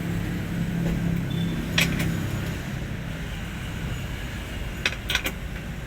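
A vehicle engine running steadily under a constant rumble, with a few sharp metallic clinks, one about two seconds in and a quick cluster near the end.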